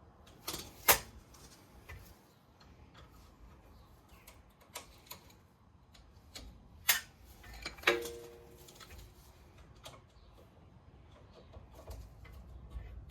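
Sharp metallic clicks and taps of hand tools at a brake caliper, spaced a few seconds apart, the loudest about a second in. One clink about eight seconds in rings briefly, metal on metal.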